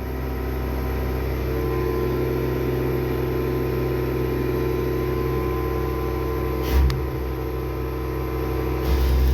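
CNC milling machine running with a steady motor and spindle hum made of several steady tones. Two brief low bumps come about seven and nine seconds in.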